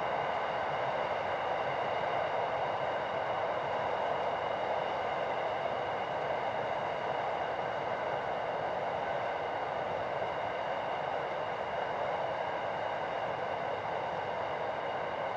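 Empty iron ore train rolling along the track at a distance, its hopper wagons making a steady, even rolling noise.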